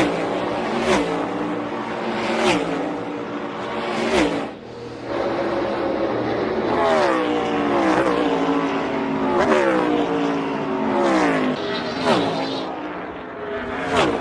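NASCAR Cup Series race cars' V8 engines at racing speed, one car after another, each engine's pitch falling as it goes by.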